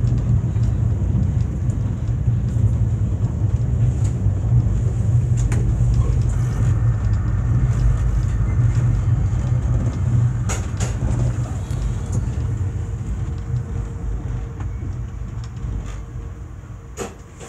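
Steady low rumble of a VIA Rail passenger train heard inside the coach while moving on the track, with a few sharp clicks. The rumble fades over the last few seconds as the train slows.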